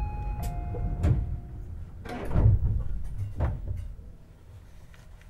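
Tobu 50090 series commuter train's sliding passenger doors closing, a few heavy thuds as they shut, over the train's low rumble. A few short tones of the door-closing chime sound at the start.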